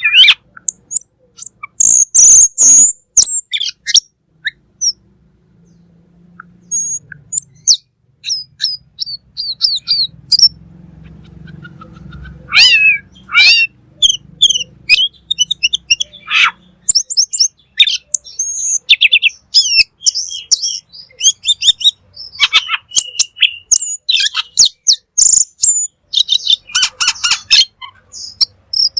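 Cucak keling bird singing vigorously: a lively, varied stream of short high chirps, whistles and rapid trills, with a quieter lull of several seconds after the first few seconds.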